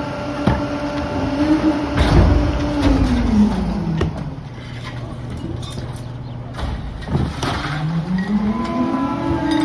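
Pak-Mor rear-loader garbage truck's engine held at raised revs, dropping to idle about four seconds in and revving back up near the end, as it works its hydraulic packer. Sharp knocks and cracks from debris being loaded and crushed.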